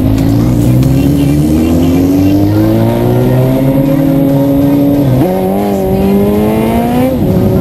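Sport motorcycle engine accelerating hard, its pitch climbing steadily. It upshifts about five seconds in, with a sudden drop in pitch, then climbs again to a second upshift near the end.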